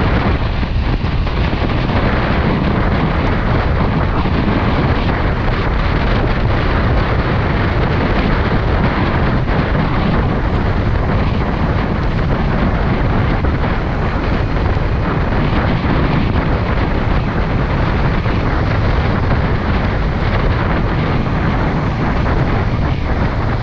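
Steady, loud wind rushing over the microphone of a Kawasaki Ninja 400 motorcycle riding at speed, with engine and road noise blended underneath.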